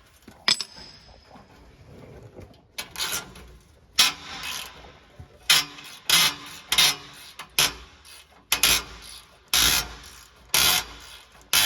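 Repeated rasping, scraping strokes on rusty exhaust metal as the old exhaust is worked off, coming about once a second and irregularly after a quieter start.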